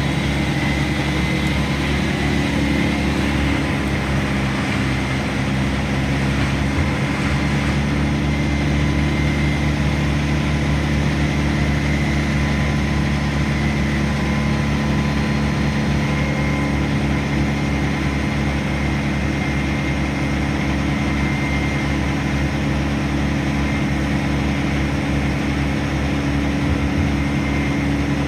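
An engine running steadily, a low drone that holds the same speed throughout.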